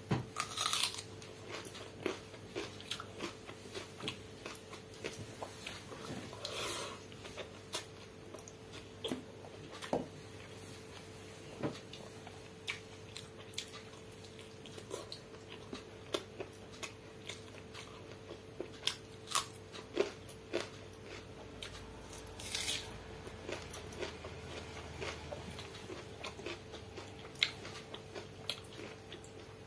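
Close-up eating sounds: chewing, lip smacks and mouth clicks as a person eats soaked water rice (pakhala) and chicken curry by hand, with a few louder bursts among the many small clicks.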